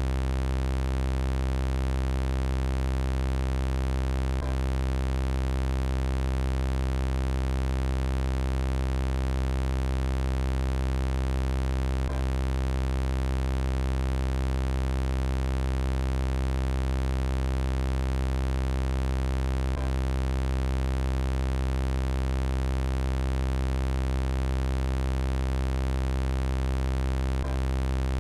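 Steady electronic robot drone: a low buzzing hum with many evenly spaced overtones that never changes pitch, with a faint click about every eight seconds where the looped sound effect repeats.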